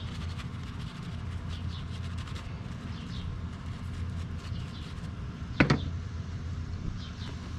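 Steady low hum with faint high chirps like birds through it, and one sharp knock about five and a half seconds in.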